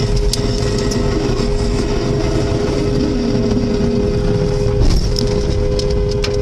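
A car horn held down continuously, two steady tones together, over traffic and road noise, with a brief knock about five seconds in.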